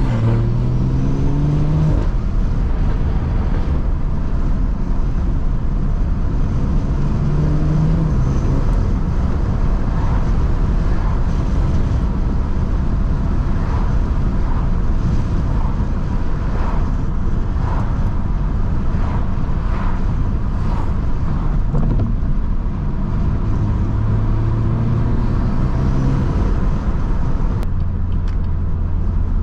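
A BMW 340i's turbocharged B58 straight-six, run with a catless downpipe and no resonators, driving: the exhaust note rises as it accelerates near the start and again about 7 seconds in, then a run of short pops and cracks follows through the middle, and it settles to a steady low drone near the end.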